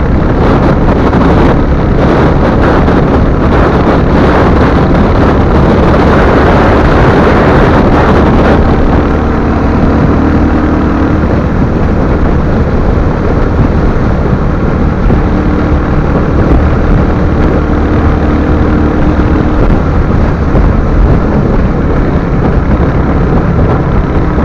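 Royal Enfield Hunter 350's single-cylinder engine running steadily at riding speed, under heavy wind rush on the microphone; the wind is strongest for the first eight seconds or so, then eases.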